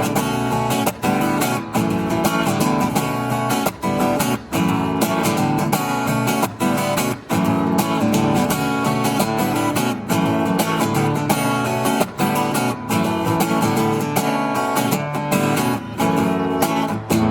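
Live acoustic guitar strummed in a steady rhythm, an instrumental passage without singing, which stops suddenly near the end.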